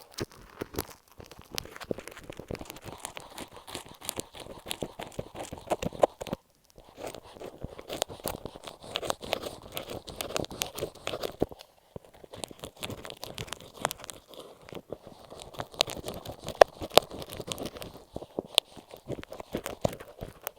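Masking tape stuck over an earphone microphone being scratched and handled right at the mic: dense crinkling and crackling with many sharp clicks, pausing briefly about six seconds in and again near twelve seconds.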